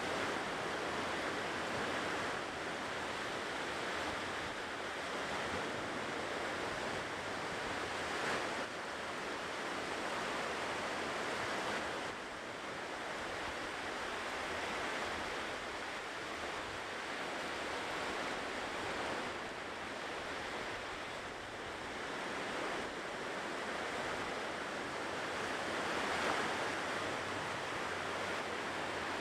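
Ocean waves washing onto a shore: a continuous surf hiss that swells and eases as waves break, with stronger breaks at about 8 seconds, 19 seconds and 26 seconds in.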